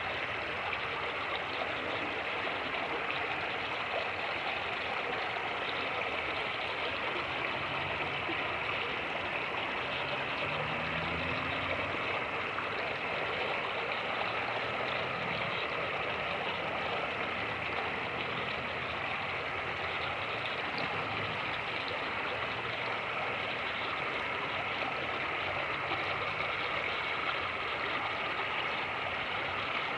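Fast-moving creek rushing steadily over rapids. A faint low rumble comes and goes in the middle.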